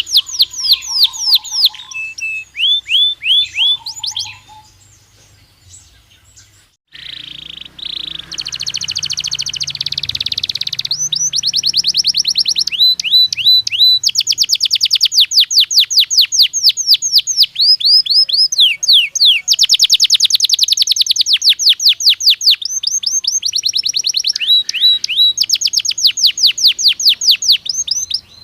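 Belgian canary singing: long, fast trills of repeated downward-sweeping notes, with a short break about five to seven seconds in before the song resumes.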